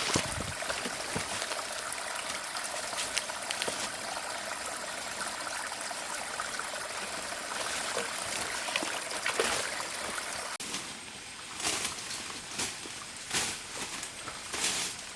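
Water trickling steadily, like a small stream. About ten seconds in it drops away suddenly, leaving a few short knocks and rustles.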